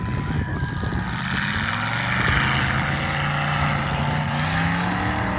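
Demolition derby car engine revving hard, its pitch climbing slowly over several seconds, with a loud rough exhaust noise over it.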